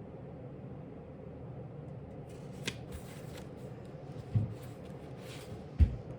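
Paper rustling as a book page is turned, with a small click, followed by two short dull knocks near the end, over a steady low room hum.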